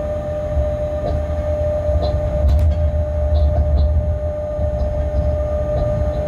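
Freight train heard from the locomotive cab while running along the track: a steady low rumble with a steady whine, and a few clicks and a sharper knock from the wheels on the rails.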